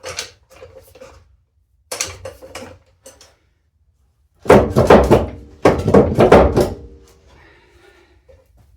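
Metal clanks and knocks as a car's front subframe is worked loose from its mounts: a few knocks at first, then two loud clanking bursts in the middle, with the metal ringing briefly after each.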